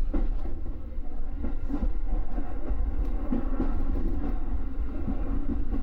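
Electric train running on the JR Nara Line, heard from on board: a steady low rumble of wheels on rail, with a few short clicks near the start.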